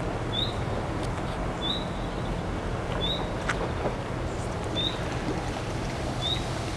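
A small bird repeating one short, high chirp about every second and a half, over a steady low outdoor rumble. A single click comes about three and a half seconds in.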